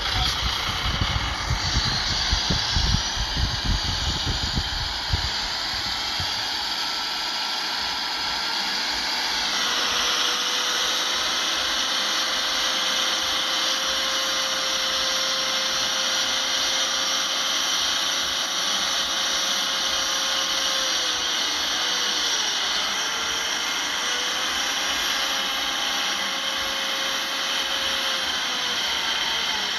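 Heavy earthmoving machinery running steadily, with a high whine over the engine note that drops in pitch about a third of the way in and again later, as the engine revs change. Irregular low rumbling during the first few seconds.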